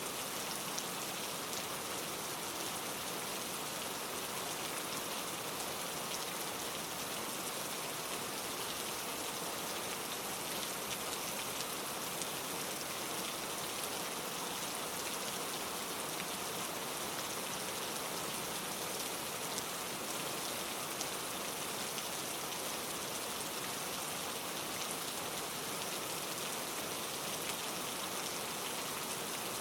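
Steady rainfall on leaves and surfaces, many fine drops pattering evenly with no pauses.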